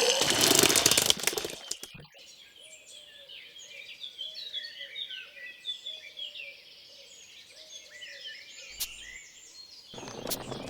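A loud rushing noise for about the first second and a half, then many small birds chirping busily, with a faint repeated lower note beneath; the loud noise comes back near the end.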